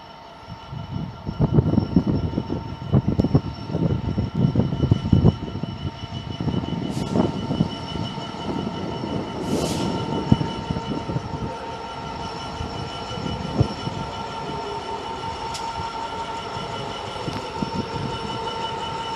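A train running on the rails: a quick run of loud wheel knocks over the rail joints for the first few seconds, then a steady rumble with a held high tone.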